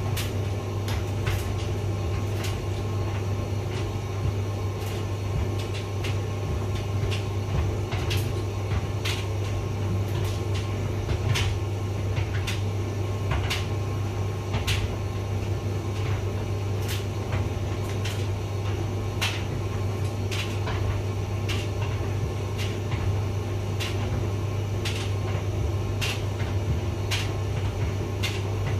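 Hotpoint vented tumble dryer running: a steady motor and drum hum with irregular light clicks and taps, roughly one a second, as the load tumbles in the drum.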